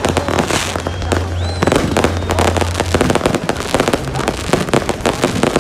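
Fireworks going off in quick, irregular succession: a dense crackle of many bangs and pops. A low steady hum runs under it for the first half, and a short rising whistle comes about a second and a half in.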